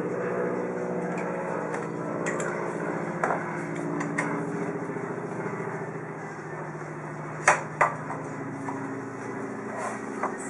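Metal parts clinking and knocking as a motorcycle front brake caliper is fitted onto the rotor and fork, with two sharp knocks close together a little past the middle, over a steady low hum.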